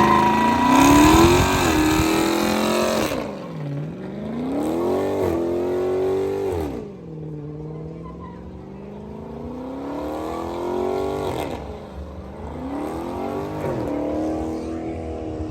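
Loud car engines accelerating, their pitch climbing and then dropping sharply several times in succession.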